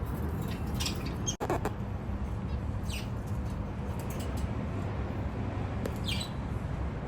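Baby budgerigar chicks giving a few short, high chirps, the clearest about three and six seconds in, over a steady low hum.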